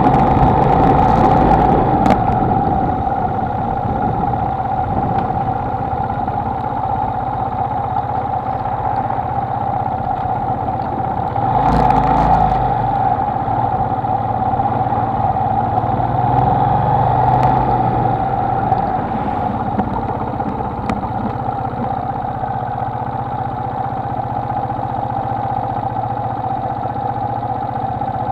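Honda XLR125R single-cylinder motorcycle engine running steadily, a little louder for a moment about twelve seconds in.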